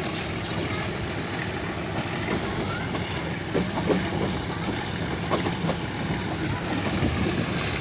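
Steady rumble and rattle of a train running, heard from a window seat, with a few sharp clacks a few seconds in as the wheels pass over rail joints and points.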